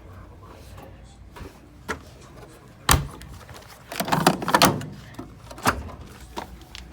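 A sharp knock about three seconds in, then a short clatter of knocks a second later and one more knock near the end, over a low steady hum.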